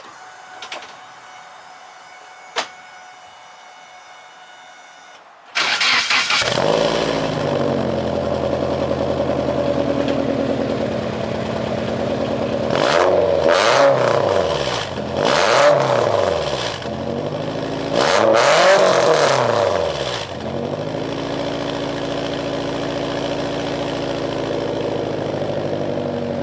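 Nissan 240SX's swapped KA24DE 2.4-litre four-cylinder with 248/248 cams, exhausting through a cheap $50 eBay muffler. It starts up about six seconds in and settles to idle. It is then revved three times, each rev rising and falling back, before it returns to a steady idle. It still sounds really bad.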